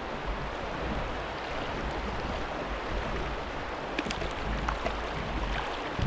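Steady rush of wind and moving water around a kayak under way, with a low rumble and a few faint clicks about four seconds in.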